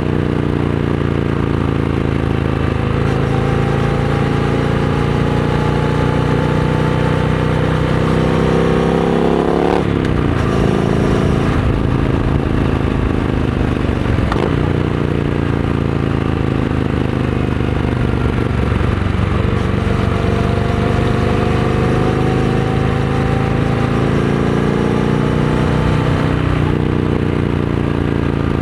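Triumph Scrambler 900's parallel-twin engine through a Vance & Hines aftermarket exhaust, under way. The note climbs steadily, falls sharply about a third of the way through, then holds and climbs again near the end.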